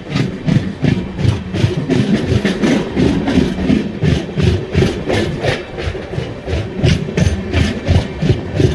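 Train running with a steady rhythmic clatter, about four to five knocks a second over a low rumble.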